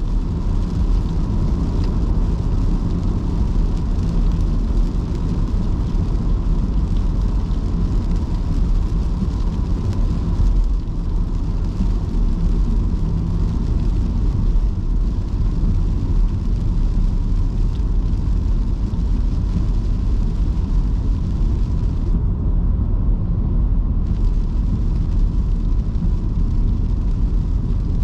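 Car driving on wet city streets in heavy rain: a steady low road rumble with the hiss of tyres and rain.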